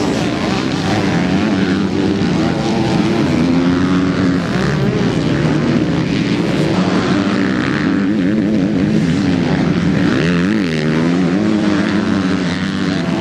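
Several MX2 motocross bikes racing past together, their engines revving up and down through the gears with overlapping, wavering notes.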